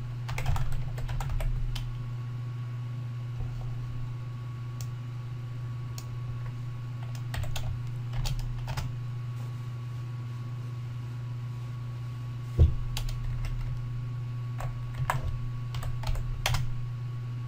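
Computer keyboard typing in short scattered bursts, over a steady low hum, with one sharper single knock about two-thirds of the way through.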